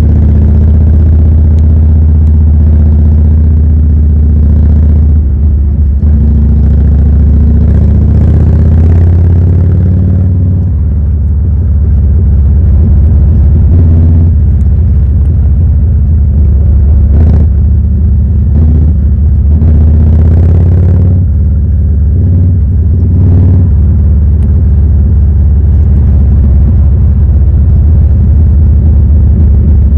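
Harley-Davidson Evolution 1340 V-twin motorcycle engine running under way with a deep, steady note, easing off briefly about ten seconds in. A few short rushes of noise come in the second half.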